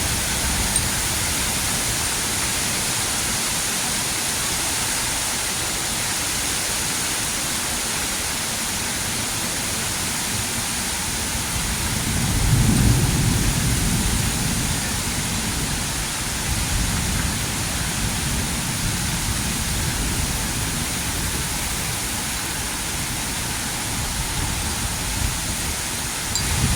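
Steady rain hissing down during a thunderstorm, with a low rumble of thunder swelling about halfway through and dying away over a few seconds.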